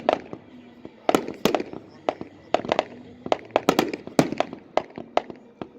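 Fireworks going off in an irregular series of sharp bangs, about two a second, some louder than others.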